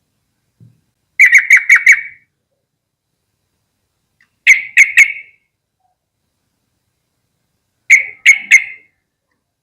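Yellow-vented bulbul (trucukan) calling in short bursts of quick, sharp chattering notes: a run of five, then two runs of three, with pauses between.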